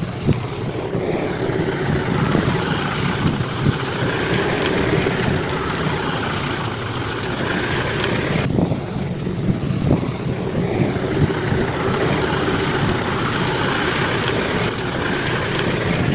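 Bulldozer's diesel engine running steadily, with occasional short knocks.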